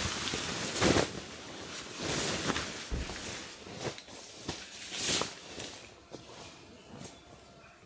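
Irregular rustling and crunching noises with a few sharp snaps, loudest in the first couple of seconds and thinning out toward the end.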